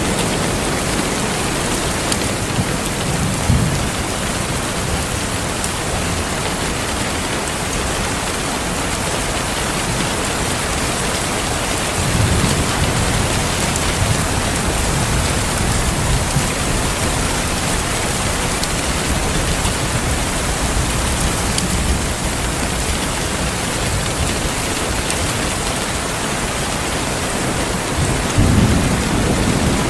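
Steady heavy rain with low rolls of thunder rumbling in and out, the strongest a few seconds in, across the middle, and near the end.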